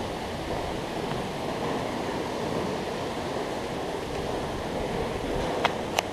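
Steady rush of water from artificial waterfalls pouring into the pools, with two sharp clicks near the end.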